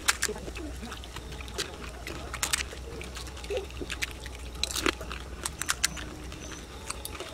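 Crisp puchka (pani puri) shells crunching irregularly as they are bitten and chewed, with a few louder sharp cracks among the smaller crackles.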